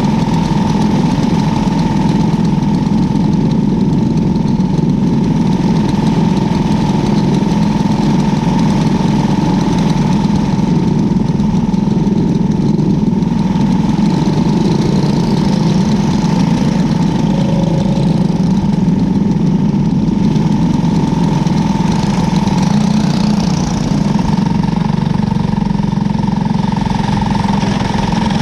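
Engine of a cadet-class winged race car running steadily at speed, heard onboard. It is a loud, even drone with little change in pitch.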